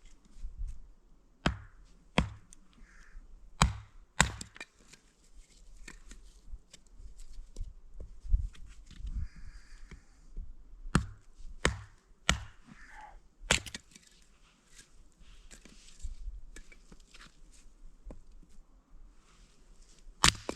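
Wood being chopped: sharp, irregularly spaced blows, some in quick pairs, with longer pauses between them.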